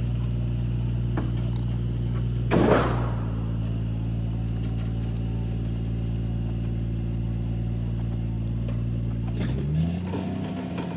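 A vehicle engine idling steadily, with a brief whoosh about three seconds in. Near the end the engine note rises and settles at a higher pitch.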